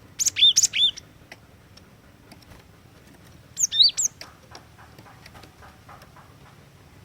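Cinereous tit (glatik watu) calling: a short burst of loud, high, sharp arched notes just after the start and a second burst about three and a half seconds in, with faint clicks in between.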